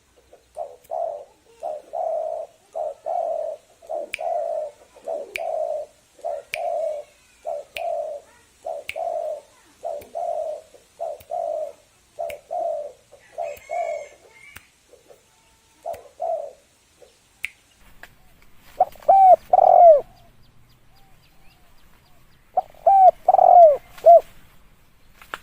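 Spotted dove cooing: a long run of short, repeated coos, one to two a second, then a pause. Two louder phrases of bending coo notes follow near the end.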